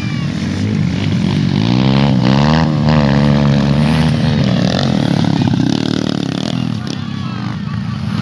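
Off-road motorcycle engines running hard. One engine grows loudest about two seconds in, its pitch sweeping up and down as it revs, then settles back into the steady drone of the others.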